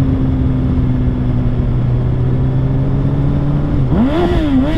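Motorcycle engine running steadily at road speed under a haze of wind noise, then revved up and back down near the end.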